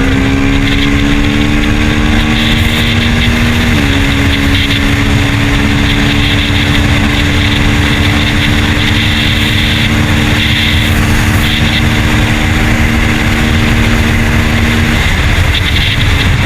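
KTM Duke 390 single-cylinder engine running at a steady pace while riding, under heavy wind noise on the helmet microphone. The engine note shifts once at about four seconds and fades under the wind near the end.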